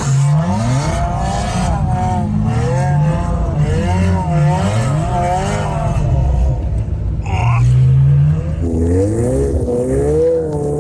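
Ferrari F12's V12 engine revving hard, its pitch rising and falling over and over as the car is driven on snow.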